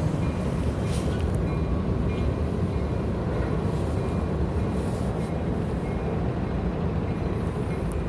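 Freight train rumbling steadily, with a few faint clanks.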